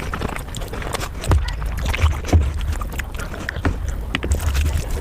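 Close-up eating sounds sped up fivefold: a rapid, dense run of wet chewing, smacking and mouth clicks over repeated low thumps.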